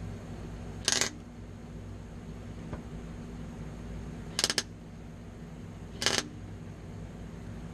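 Electric welder laying three brief tack welds on steel roof cross braces, each a crackling burst of about a quarter second, the last two about 1.7 s apart. A steady low hum runs underneath.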